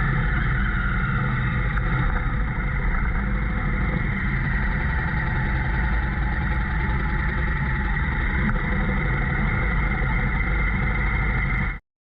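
Motorcycle engine running steadily, with no rise or fall in pitch, cut off abruptly near the end.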